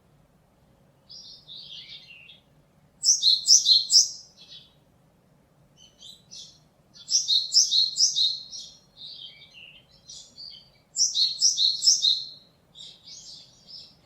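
Japanese tit singing: loud bouts of a quickly repeated, high two-note phrase, each bout about a second and a half long and coming about every four seconds, with softer calls between.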